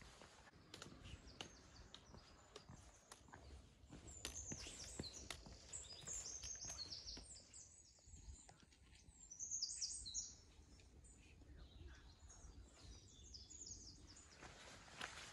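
Faint small birds chirping, a run of quick high notes starting about four seconds in and lasting several seconds, with a few light footsteps on rock.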